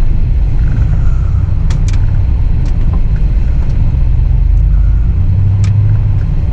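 Truck driving slowly over a rough off-road trail: a steady low engine and drivetrain rumble with a few sharp knocks and rattles as it bumps along.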